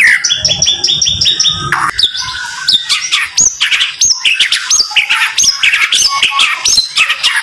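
White-rumped shama (murai batu) singing rapid-fire 'tembakan' phrases: fast runs of repeated sharp whistled notes, first a quick trill, then sharp hooked notes about two a second.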